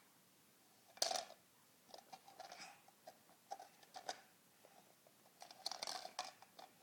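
Faint clicks and taps of small plastic Mr. Potato Head toy pieces being handled and mouthed. The sharpest click comes about a second in, and a quick cluster of clicks near the end.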